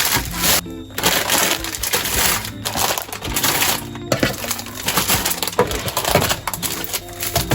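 Continuous crackling and rustling with many small clicks, as food packaging and dry goods are handled and sorted into storage containers.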